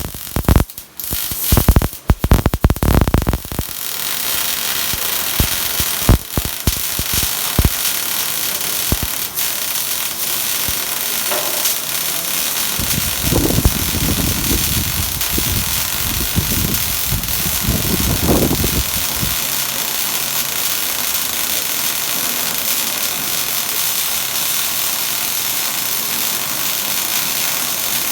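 A few loud knocks and clicks, then from about four seconds in a steady loud hiss and crackle of an electric welding arc burning.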